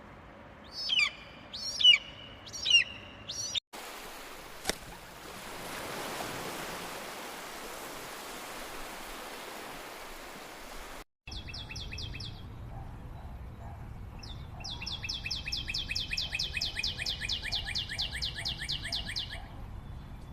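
Birds singing: four loud looping whistled calls about a second apart, then after a break a few seconds of steady rushing noise with a single click, then after another break a short trill and a long, rapid trill of evenly repeated notes.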